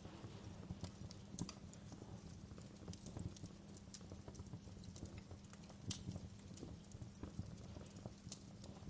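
Wood fire crackling: irregular sharp pops and snaps, a few louder ones standing out, over a low steady rumble.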